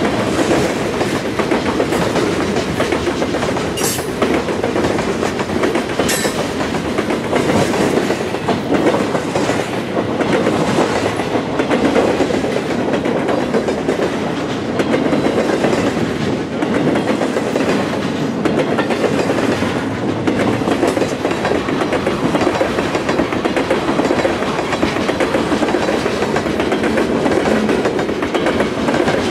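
Freight train cars rolling past, steel wheels clicking over rail joints above a steady rumble, with a few sharper clicks in the first several seconds.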